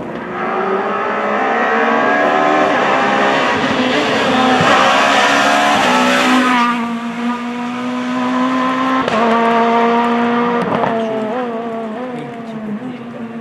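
Rally car at full throttle on a special stage, its engine note climbing and then dropping back at each gear change. It is loudest about six seconds in and then fades as the car moves away.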